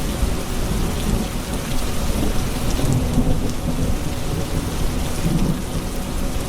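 Thunderstorm: steady heavy rain with a continuous low rumble of thunder rolling underneath, and scattered drops ticking on surfaces.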